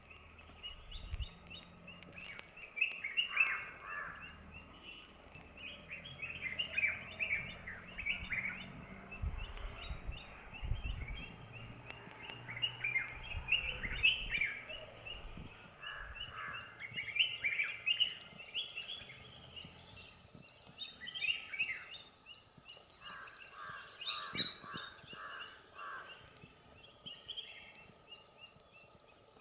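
A busy chorus of small birds calling, with many short, quick chirping notes overlapping. A fast, high, evenly repeated trill runs behind them and grows stronger near the end.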